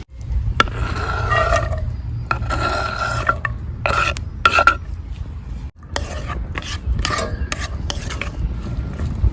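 A utensil scraping and stirring in a cooking pan, in repeated uneven strokes with a metallic ring, over a steady low rumble. The sound cuts off abruptly twice.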